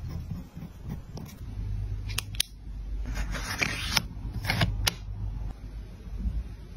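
Journal-decorating handling sounds of paper and stationery: a few light clicks and taps, and a short rustle about three seconds in.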